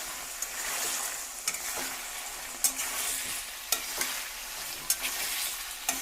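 Half-cooked chicken pieces and green chillies frying in hot coconut oil with a steady sizzle, while a spatula stirs them, knocking and scraping against the pan about once a second.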